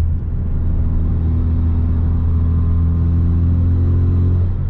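2017 Hyundai Veloster Turbo's 1.6-litre turbocharged four-cylinder with a straight-piped exhaust (resonator and muffler deleted), droning steadily at cruise in sport mode, heard from inside the cabin. The exhaust note is a loud, deep, even drone that holds one pitch.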